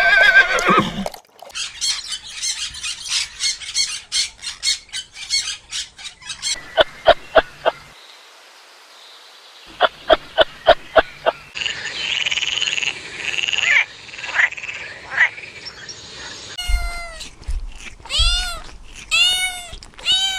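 Frogs croaking in trains of short, rapid pulses, with a pause of about two seconds in the middle. Near the end comes a series of short arching calls repeated about once a second.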